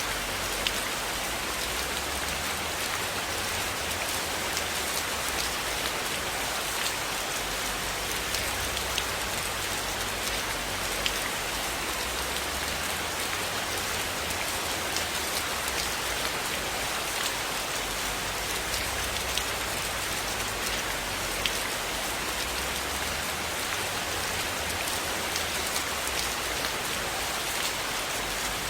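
Steady rain: an even, dense hiss of falling rain with scattered sharp ticks throughout.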